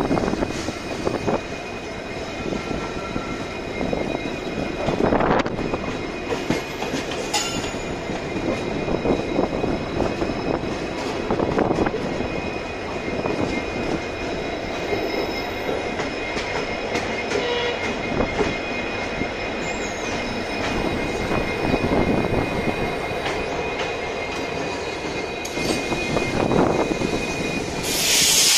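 Train running through a station, heard from aboard: a steady rumble with wheels knocking over rail joints and a thin, steady wheel squeal. A brief loud rush of noise comes near the end.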